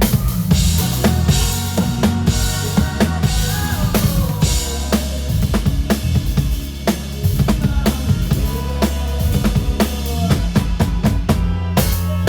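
Live band music with a drum kit up front: kick drum, snare and rimshots drive a steady beat over bass and other pitched instruments.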